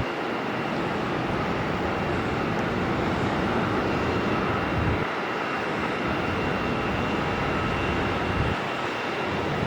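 Boeing 737 jet engines running: a steady rush of jet noise with a faint high whine held throughout. A low, uneven rumble comes and goes underneath, dropping out about halfway through and again near the end.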